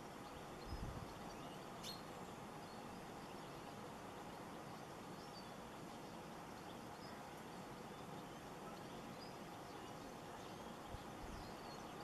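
Small garden birds giving faint, scattered short chirps over a steady background hiss, with a single sharp click about two seconds in.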